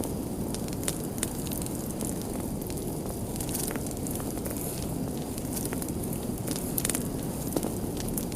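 Fireplace fire crackling: frequent irregular sharp pops and snaps over a steady low rush of burning.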